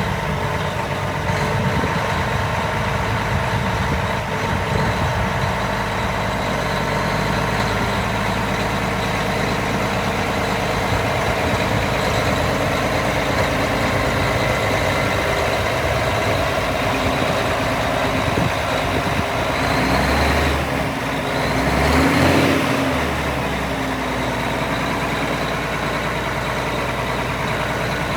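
Case IH STX 450 articulated 4WD tractor's diesel engine idling steadily just after starting. It swells briefly twice, about twenty and twenty-two seconds in.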